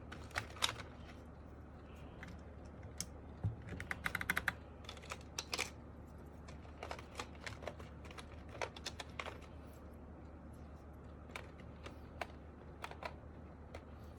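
Irregular plastic clicks and taps from keycaps being pressed onto an MK870 mechanical keyboard with Sky Panda switches, some clicks coming in quick clusters.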